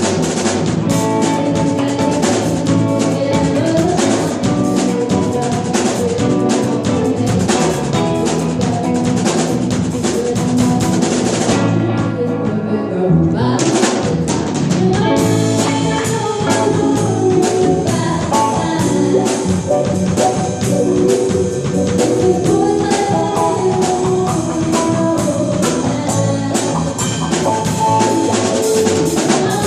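Live band playing a passage without sung words, the drum kit prominent with rimshots and bass drum under the pitched instruments. About twelve seconds in, the cymbals and high end drop out for a second or so, then the full band comes back in.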